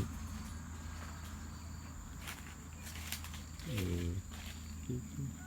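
Steady high chirring of insects, likely crickets, over a low hum, with a couple of sharp clicks midway and a brief falling vocal sound about four seconds in.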